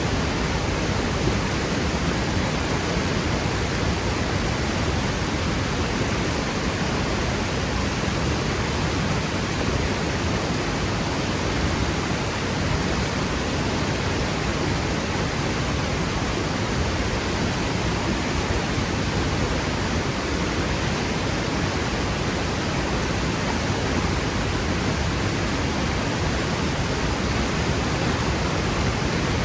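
Waterfall crashing into its pool: a loud, steady rush of falling water with a deep low rumble.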